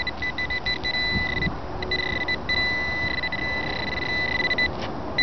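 Golden Mask metal detector giving its target tone: a steady high beep that cuts in and out several times as the coil is swept back and forth over a buried object, here a lead bullet. Wind buffets the microphone underneath.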